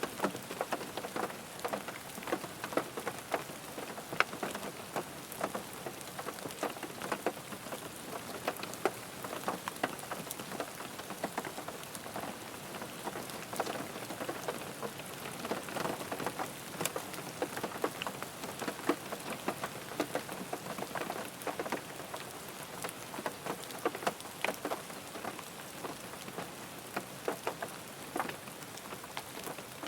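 Steady rain falling on a car's roof and glass, heard from inside the car: a constant hiss with many individual drops ticking sharply and irregularly.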